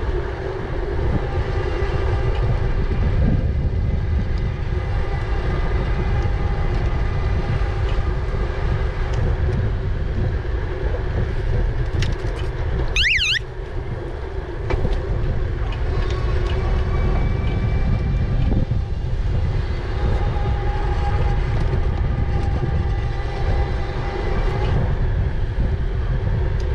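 Riding an e-bike: wind rumble on the microphone and tyre noise, with a steady hum. About halfway through there is a brief wavering high-pitched tone.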